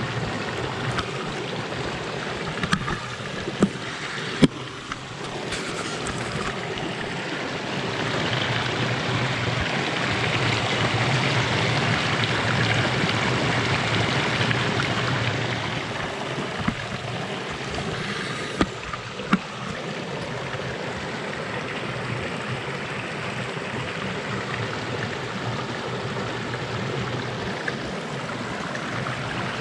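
A small rock waterfall on a normally dry stream, running full after heavy rain: water rushing and splashing steadily, swelling louder for several seconds in the middle. A few brief clicks sound over it.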